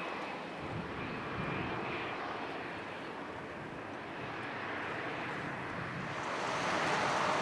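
Jet engines of an Air New Zealand Boeing 787-9 (Rolls-Royce Trent 1000s) running, a steady rushing jet noise that grows louder about six seconds in.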